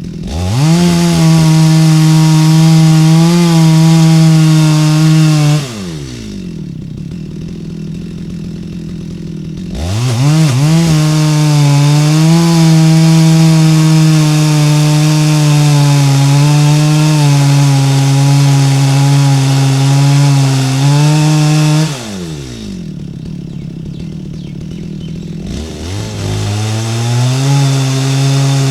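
Stihl MS 250 two-stroke chainsaw running at full throttle, likely cutting into wood, with its pitch wavering under load. It drops back to idle twice, for a few seconds each time, revving up after each, and revs up once more near the end.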